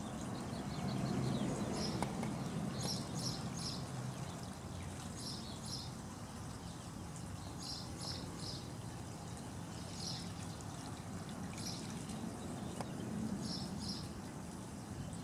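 A bird chirping repeatedly, short high notes in pairs or threes about every two seconds, over a low steady rumble.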